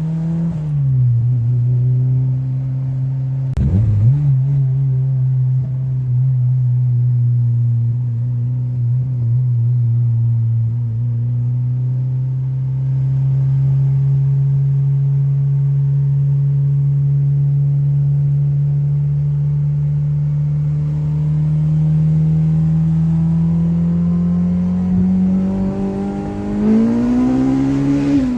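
Honda Civic's K-series four-cylinder engine pulling the car through the gears: the engine note drops at a gear change about a second in and again around four seconds in, then holds steady at cruise. From about twenty seconds the revs climb gradually, then rise sharply and fall again near the end at another shift.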